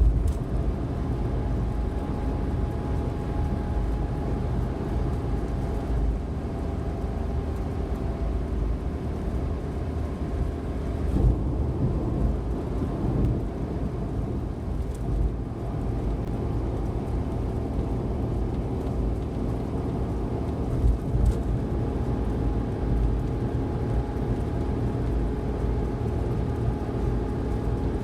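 Suzuki Every kei van running at expressway speed, heard from inside the cabin: a steady low rumble of tyre and road noise under the hum of its small 660 cc three-cylinder engine, swelling slightly a couple of times.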